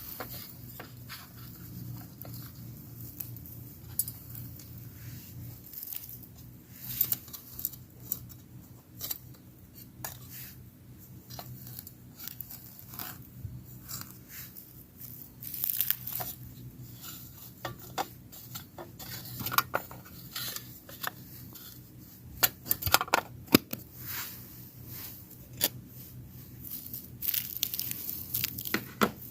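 Scattered clicks, taps and tearing or rustling sounds of things being handled, some louder than others, over a faint low hum.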